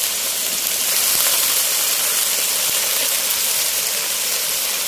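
Shrimp and freshly added mustard greens sizzling in hot oil in a wok: a steady frying hiss.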